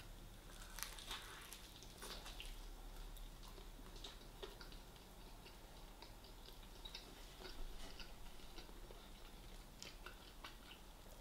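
A person chewing a piece of gravy-coated fried chicken close to the microphone: faint wet mouth clicks and soft smacks, with a few sharper crunchy ticks about a second and two seconds in.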